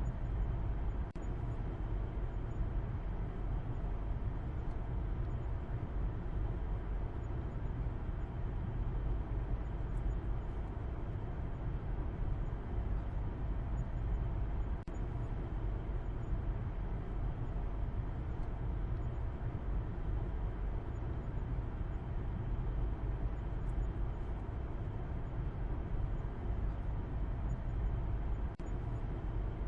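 Steady low rumble of a car driving, an even mix of road and engine noise heaviest in the bass, without rises or breaks.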